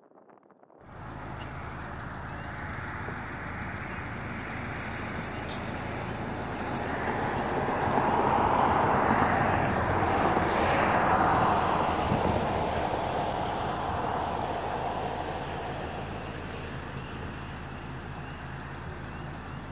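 A train passing: a steady low diesel engine drone under wheel and rail noise that builds to its loudest around the middle and then slowly eases off. It starts suddenly about a second in.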